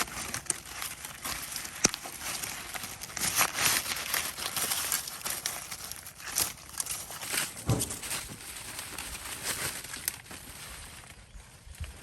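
Irregular dry rustling and crackling, with scattered sharp clicks and snaps, quieter near the end.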